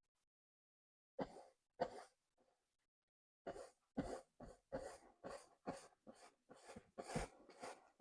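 Paintbrush stroking oil paint onto a canvas: faint short scratchy strokes, two at first, then a steady run of about two strokes a second from a little before halfway.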